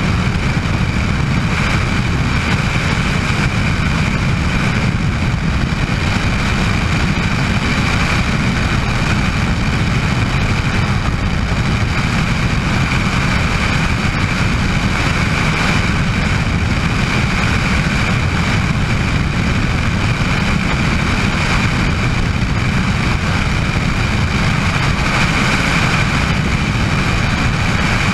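Bell 206 JetRanger helicopter running steadily, a high turbine whine over dense low rotor and engine noise.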